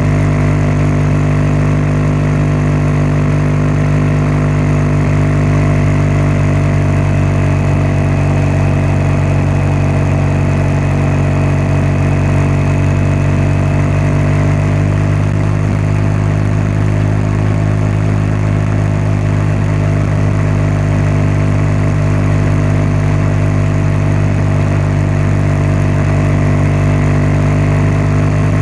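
BMW R1200GS boxer-twin engine and exhaust running at a steady engine speed, with no revving.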